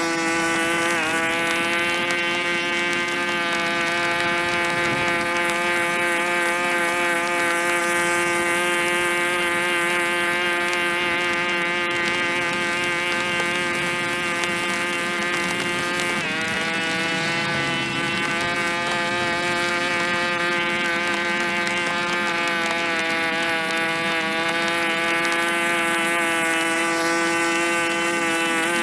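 A small engine running steadily at high speed, with a strong, even pitch. Its pitch dips briefly about a second in and again about halfway through.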